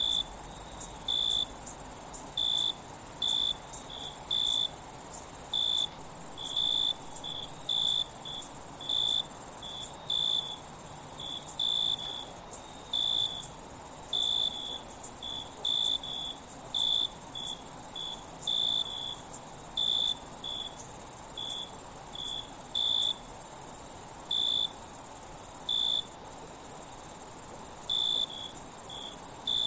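Night insect chorus: a steady high-pitched shrill drone, with a nearer cricket chirping in short notes, about one or two a second, over it.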